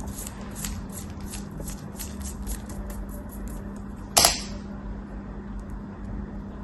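A knife cutting repeatedly in quick, soft strokes, about three a second, which fade after a few seconds. About four seconds in comes one sharp, loud crack. A steady low hum runs underneath.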